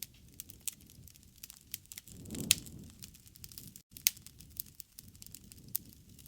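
Wood fire crackling, with irregular sharp pops and snaps and a low swell in its sound about two and a half seconds in.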